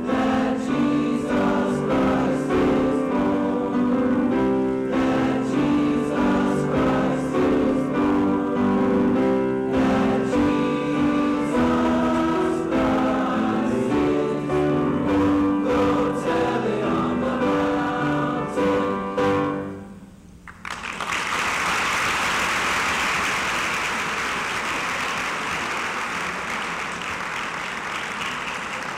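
Junior high school choir singing a song that ends about two-thirds of the way through, followed by audience applause that slowly fades.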